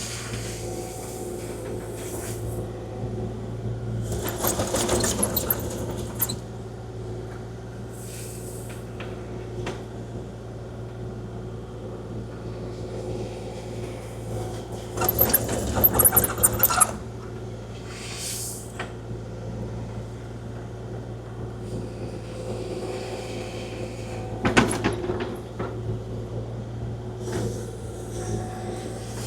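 Kubota KX040-4 mini excavator's diesel engine running steadily under working load while grading, with three louder stretches of bucket scraping through gravel, the loudest about halfway through.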